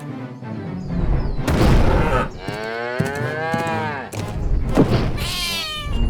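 Cartoon sound effect of a giant animal bellowing: one long low call that rises and then falls in pitch, with a shorter call near the end, after heavy thuds, over music.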